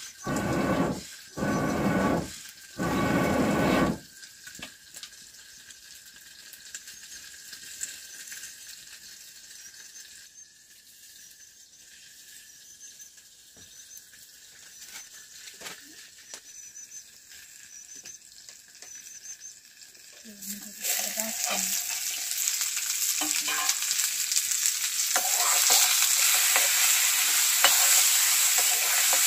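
Potatoes and green chillies sizzling loudly in a metal wok over a wood fire, stirred and scraped with a metal spatula, starting about two-thirds of the way in. Before that, four loud short bursts in the first few seconds, then a quiet stretch with faint clicks.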